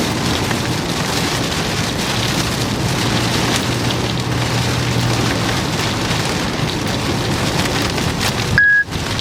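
Heavy rain pelting a moving car, heard from inside, a steady dense hiss. Near the end a short high beep sounds as the audio briefly cuts out.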